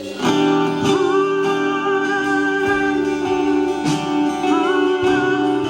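Worship band music coming in loudly just after the start: a guitar lead with sliding, wavering notes over held chords.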